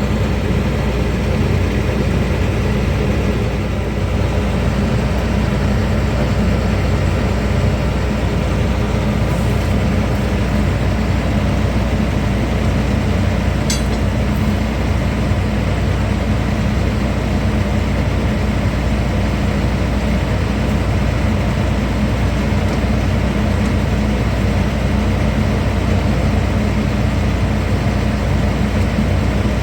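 Combine harvester engine running steadily with a low, even drone.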